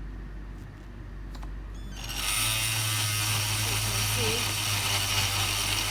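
Battery-powered surgical oscillating bone saw switched on about two seconds in and running steadily, after a few faint clicks of handling.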